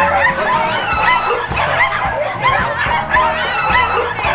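Puppies yipping and whining in many short, wavering squeals, over background music with a low beat.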